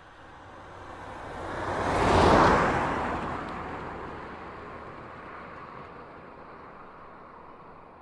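A car passing by: a rush of tyre and engine noise that swells to a peak about two seconds in, then slowly fades away.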